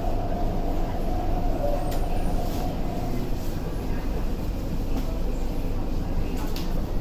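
Steady low rumble inside the carriage of an MTR Tuen Ma Line train alongside the platform. A faint whine dies away about two seconds in.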